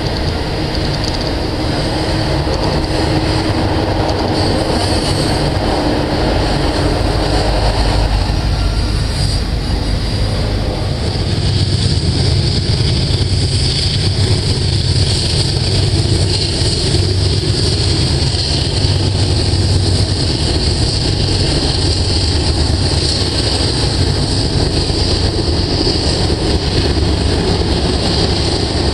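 Freight train on the rails: a double-stack container train rolling past. About a third of the way in it gives way to a deeper rumble and a steady high whine as a second stack train, led by four BNSF diesel locomotives, comes up.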